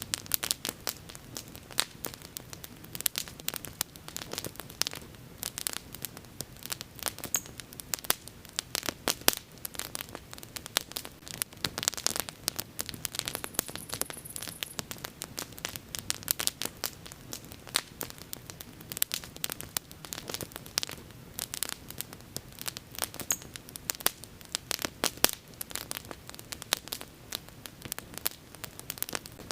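Bonfire burning with dense, irregular crackling and popping over a low hiss.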